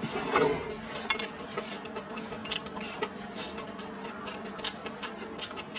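Close-up eating: a mouthful of rice and greens taken off chopsticks with a short noisy bite-and-slurp, then chewing with many small wet mouth clicks and smacks.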